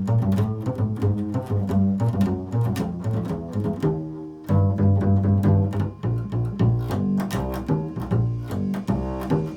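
Improvised solo music on a low string instrument, with quick plucked and bowed notes and a swell of fuller, sustained notes about halfway through.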